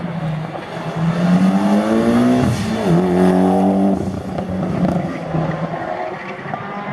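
Mitsubishi Lancer Evolution X's turbocharged 2.0-litre four-cylinder accelerating hard on an autocross run. The revs climb, dip sharply about two and a half seconds in, climb again, then settle lower as the car turns through the cones.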